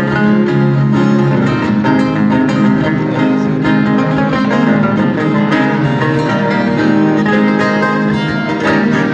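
Instrumental break in a Brazilian sertanejo song: viola caipira and acoustic guitar strumming and picking, with no singing.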